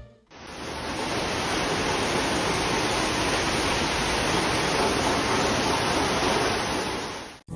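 A steady, even rushing hiss with no pitch or rhythm, which cuts in abruptly and cuts off abruptly.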